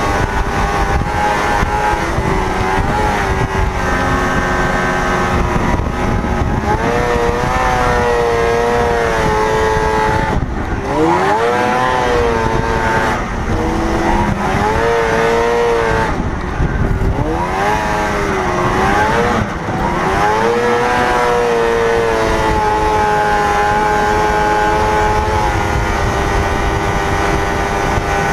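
Vintage Ski-Doo Blizzard 7500 snowmobile's two-stroke engine running under way, its pitch rising and falling as the throttle is opened and eased, with sharp dips as the throttle is let off about ten, sixteen and nineteen seconds in.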